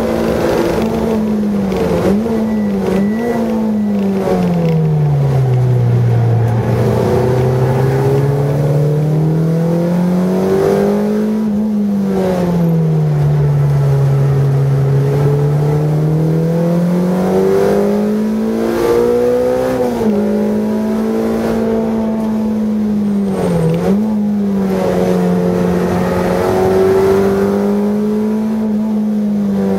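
A car's engine heard from inside the cabin while lapping a racing circuit. The engine note falls and climbs several times as the car slows for bends and accelerates out of them. There are two quick dips about two to three seconds in and another just before the end.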